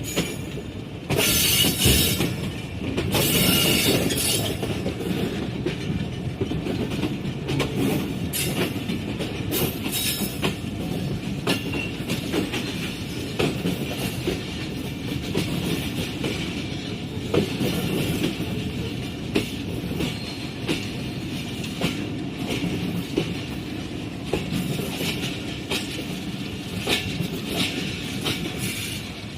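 Passenger train rolling into a station: a steady rumble of the coaches with repeated clacking of wheels over rail joints, and wheel or brake squeal loudest in the first few seconds.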